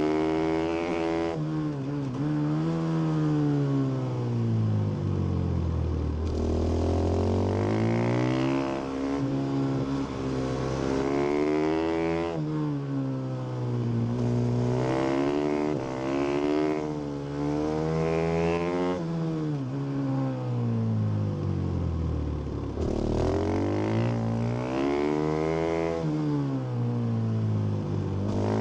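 Stock 2017 Husqvarna FS450 supermoto's single-cylinder four-stroke engine on track, its revs repeatedly climbing hard and then dropping away as the bike accelerates and slows. There are about five such rise-and-fall cycles, with abrupt changes in the engine note along the way.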